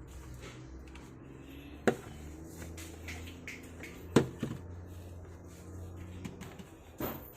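Sharp knocks and clicks of a plastic speaker casing and its parts being handled during disassembly: one about two seconds in, the loudest about four seconds in with a smaller one just after, and another near the end, over a low steady hum.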